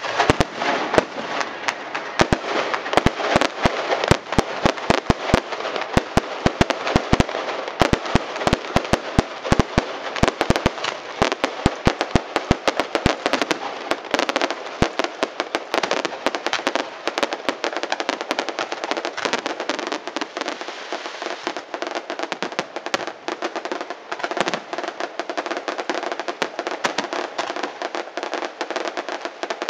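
Aerial fireworks going off in rapid volleys: dense sharp bangs over a constant crackle. The heaviest bangs crowd the first half and thin out after about halfway, leaving quicker, lighter pops and crackling.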